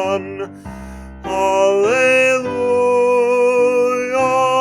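A man's bass voice singing a hymn: he finishes the line on 'begun', and after a short break holds one long note that steps up in pitch about two seconds in.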